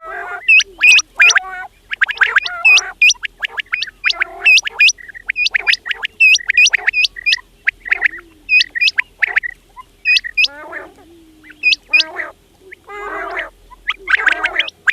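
Quails calling: a fast run of short, sharp notes that rise in pitch, mixed with harsh, rattling chatter.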